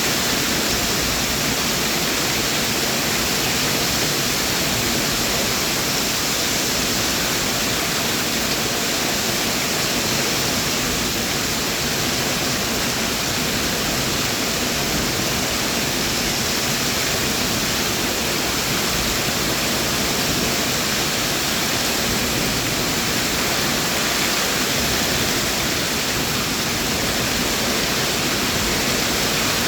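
Heavy rain falling steadily, a dense even hiss with no separate drops standing out.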